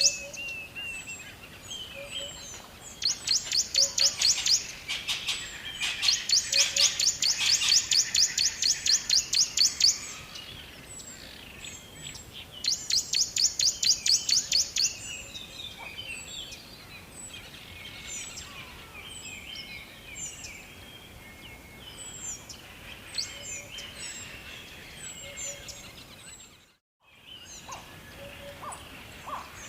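Songbirds chirping: three loud bursts of fast, pulsed trilling in the first half, then many short scattered chirps and calls. The sound drops out completely for a moment near the end.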